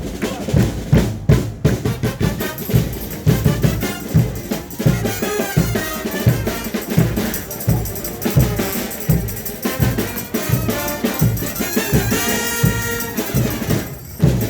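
Live frevo played by a brass band with drums: brass horns carry the melody over a steady bass drum and snare beat.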